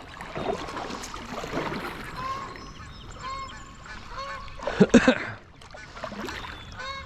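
Geese honking: short, repeated honks scattered through, with a louder cluster of calls about five seconds in.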